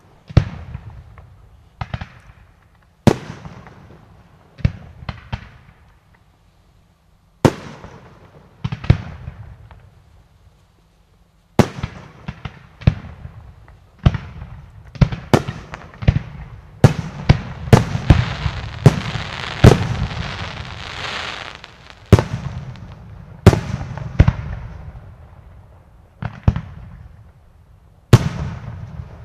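Aerial fireworks display: shells bursting with sharp bangs that echo and die away, a few seconds apart at first. About halfway through comes a dense run of bangs over a hissing crackle, then single bursts again near the end.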